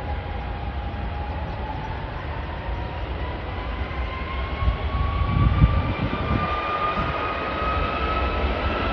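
Jet aircraft engine running, a whine rising slowly in pitch over a deep rumble, which grows rougher and louder about five to six seconds in.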